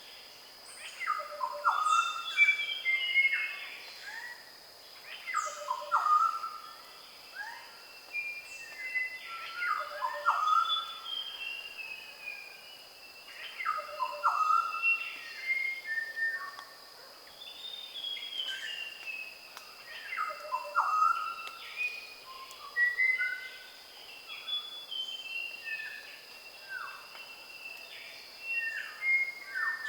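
New Guinea highland forest dawn chorus with birds of paradise: many birds calling at once, mostly falling whistled notes and repeated phrases coming in waves every few seconds, over a steady high-pitched drone.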